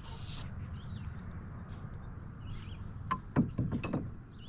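Open-air lake ambience: a steady low wind rumble with a short hiss at the start, a couple of faint bird chirps, and a cluster of a few knocks about three to four seconds in.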